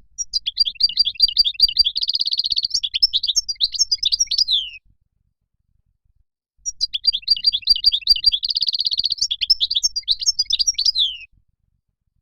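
European goldfinch song: two near-identical phrases of quick twittering chirps, each with a fast trill in the middle and ending on a falling note, separated by a silent pause of about two seconds.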